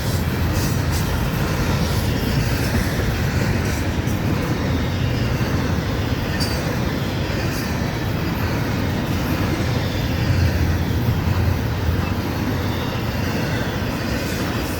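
Florida East Coast Railway intermodal freight train rolling past, its container and trailer cars making a steady rumble of wheels on rail, with a few sharp clacks from the wheels.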